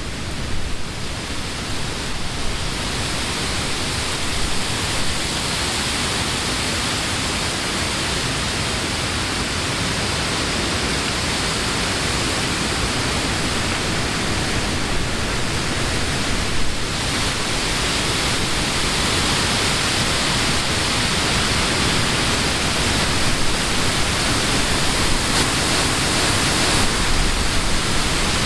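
Summer wind blowing steadily through leafy trees, a continuous rushing of leaves with gentle swells in strength and a few gusts on the microphone.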